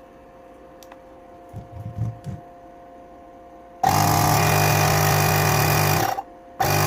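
Portable 12 V 90 W cordless inflator pump switched on: after a few light clicks, its compressor starts about four seconds in and runs with a steady loud buzz for about two seconds, stops briefly, then runs again near the end. The freshly repaired pump is running normally.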